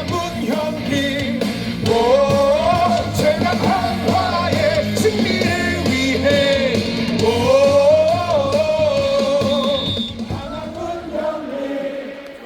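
Baseball stadium crowd singing a batter's cheer song together over rock-style backing music from the ballpark loudspeakers, easing down near the end.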